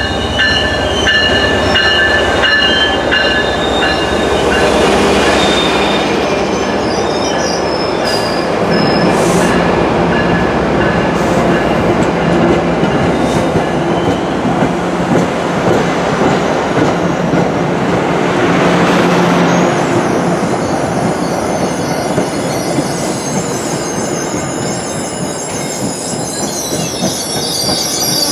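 MBTA commuter train rolling past on the Franklin Line, a steady rumble of wheels on rail. High-pitched wheel squeal rings over it in the first few seconds and again near the end.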